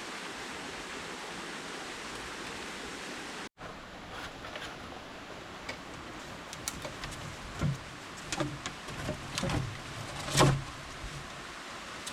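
A steady rushing hiss, like running water or rain, that cuts off abruptly after about three and a half seconds. Then a quieter background with scattered knocks and handling thumps, the loudest a thump about ten and a half seconds in.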